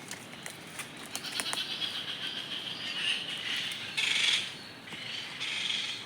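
A small bird flapping its wings in short bursts, three times, as it struggles to fly after falling from the trees; it is still too young to fly well.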